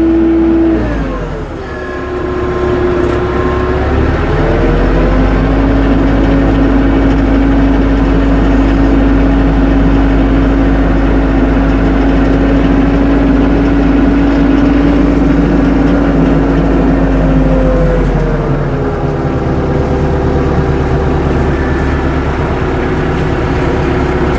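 Tractor engine running steadily. Its speed drops about a second in, rises again around four seconds, holds, then drops again about eighteen seconds in.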